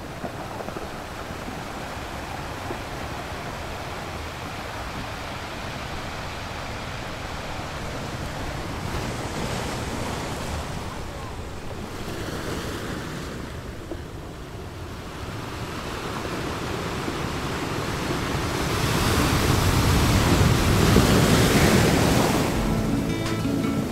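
Ocean surf breaking and washing onto a beach, a steady rush that swells louder in the second half. Music comes in right at the end.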